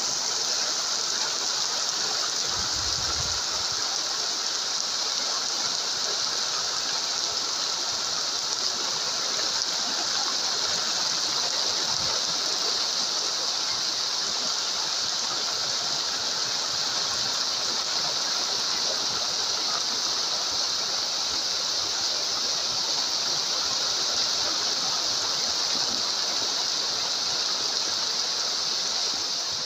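Heavy rain falling in a steady, even hiss, with a short low rumble about three seconds in.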